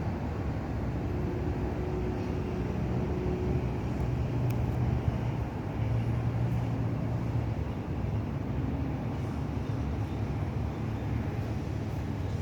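Steady low rumble of city night ambience from a rooftop: distant traffic and wind, with a faint low hum in it and no distinct events.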